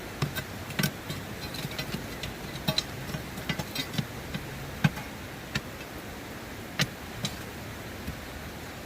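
A hand digging tool working into rocky gravel: irregular sharp clinks and ticks of metal and stone, about a dozen, over the steady rush of river water.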